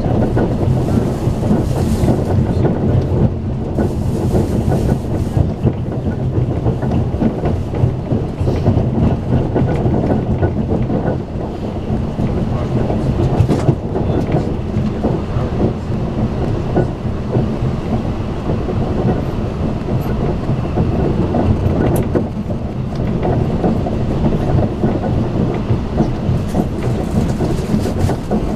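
Running noise heard inside a Strizh Talgo passenger car at speed: a steady rumble of wheels on rail, with a few short knocks.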